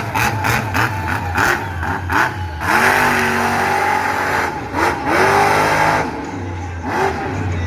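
Monster truck engine revving hard, its pitch climbing in repeated surges about three seconds in, again around five seconds and near the end.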